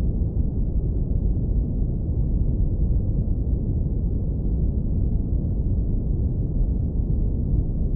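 Synthetic brown noise, filtered down to a deep, steady low rumble with nothing bright or high in it.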